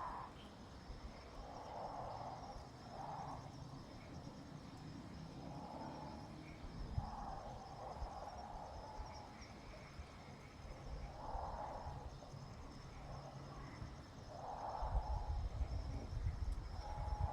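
Nestling birds giving short, hissy begging calls over and over, a second or two apart. Crickets chirp steadily behind them, and a low rumble comes in near the end.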